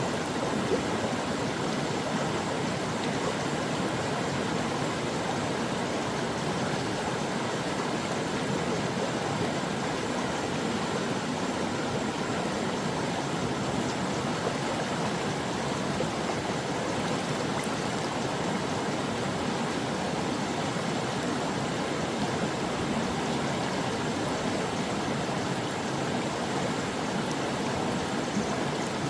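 A mountain stream rushing and babbling over rocks, a steady, even flow of water.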